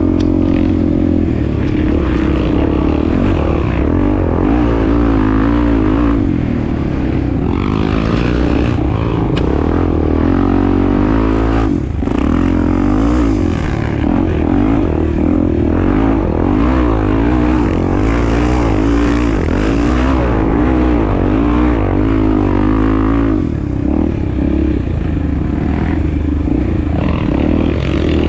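Honda Tornado 250 single-cylinder four-stroke dirt bike engine running while being ridden, its pitch rising and falling constantly with the throttle, with a short easing off about halfway through.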